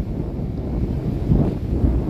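Strong hurricane wind buffeting the microphone in gusts, a low rumbling rush that swells and eases.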